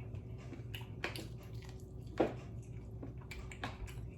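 Chewing and mouth sounds of someone eating barbecued chicken: a run of soft, wet clicks, with one louder one about two seconds in.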